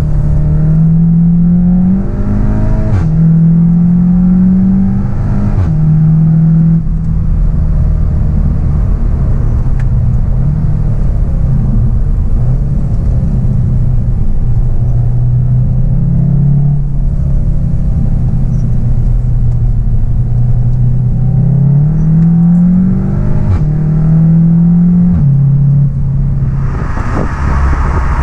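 SEAT Leon Cupra 290's turbocharged 2.0-litre four-cylinder heard from inside the cabin, accelerating through quick DSG upshifts: the engine note climbs and drops sharply at each shift, a run of them near the start and again later, with steadier running in between. Near the end a broad rushing noise comes in.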